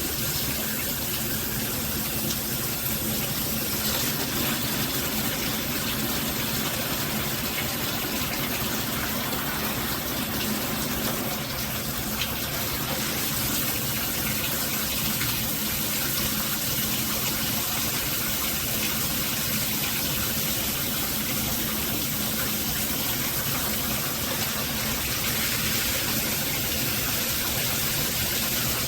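Steady rush of water spraying from an all-metal HammerHead dual shower head running at high flow with its flow regulators removed.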